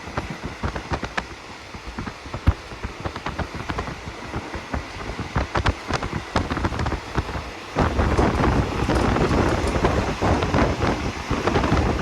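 Passenger train running, with wind noise on the microphone and many small clicks and rattles. It gets louder about eight seconds in.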